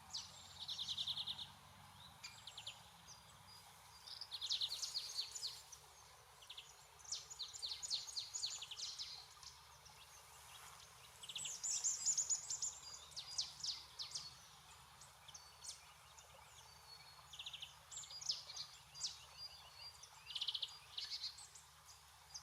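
Small songbirds calling: many short, high chirps and quick rattling runs of notes, coming in clusters with brief pauses between them.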